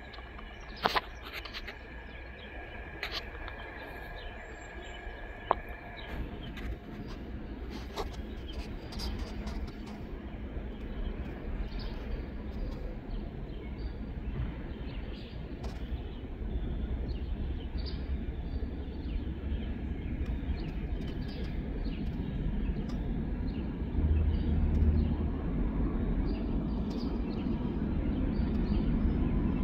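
Low rumble of an approaching Norfolk Southern diesel freight train, growing steadily louder, with birds chirping over it and a few sharp clicks in the first several seconds.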